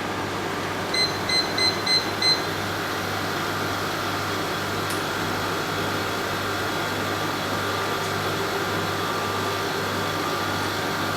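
Portable air conditioner running with a steady hum. About a second in, its control panel beeps five times in quick succession.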